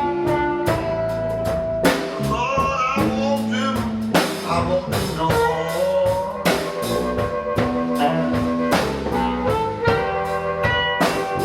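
A blues band playing live, with drum kit and sustained pitched lead notes over the rhythm, all at a steady, loud level.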